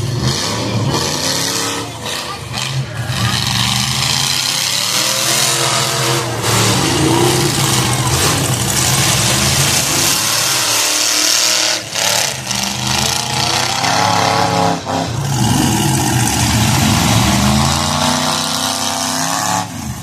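Demolition derby car engines revving and running hard, their pitch rising and falling again and again.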